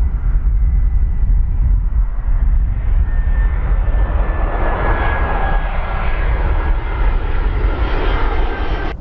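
Jet airliner passing close by: loud engine rumble with a slowly falling whine, swelling to its loudest about five seconds in.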